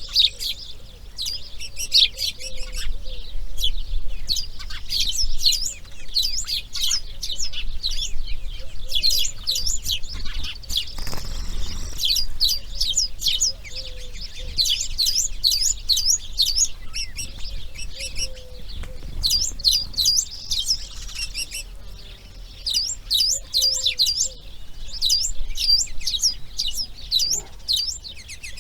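A dense chorus of birds chirping and singing, with rapid high notes running on almost without pause, and a faint low repeated call underneath.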